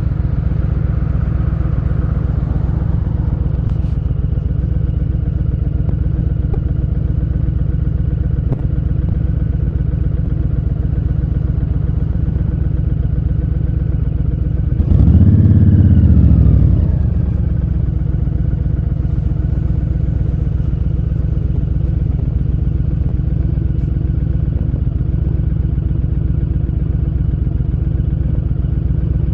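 Honda Fury's V-twin motorcycle engine running steadily at low revs, heard from the rider's seat. About halfway through it is given a burst of throttle: the pitch jumps up, it gets louder, then the revs fall away over a couple of seconds.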